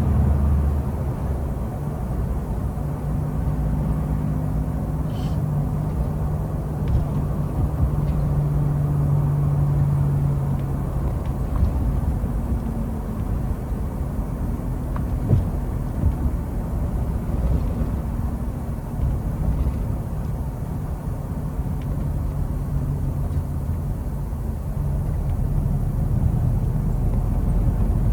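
CNG-powered truck running on the road: a steady low engine drone with road rumble. The engine tone grows stronger for several seconds in the first half, then eases back.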